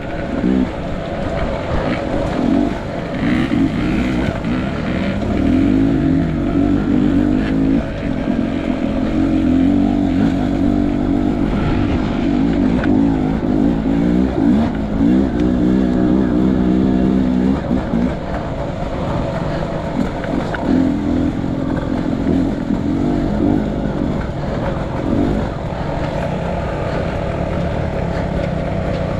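Enduro motorcycle engine running under load off-road, its revs repeatedly climbing and dropping back as the throttle is worked.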